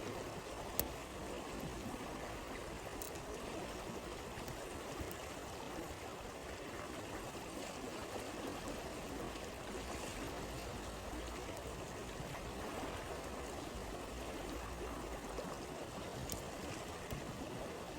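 Stream water flowing steadily, with a few sharp pops from a crackling campfire, one about a second in and another near the end.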